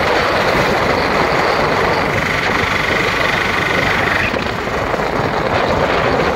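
Tamtam (shared auto-rickshaw) engine running with loud, steady road and wind noise. A high steady whine runs along with it and stops about four seconds in.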